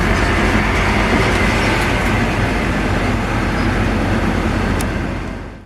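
Steady noise of a bus running, engine hum under an even rush of road noise, fading out near the end.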